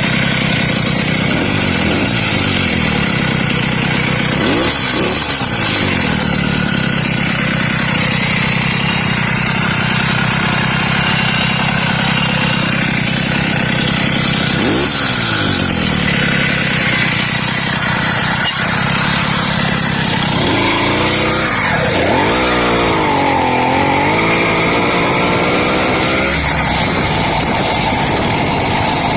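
Two-stroke 80cc motorized-bicycle engine with a G4 cylinder running at a raised idle. It is blipped briefly about 5 and 15 seconds in, then revved up and down for several seconds near the end.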